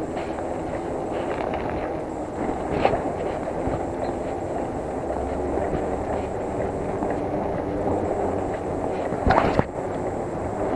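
Bicycle being ridden on the road: a steady rolling rumble of tyres and rattling from the bike, with a few short knocks and a louder clatter near the end.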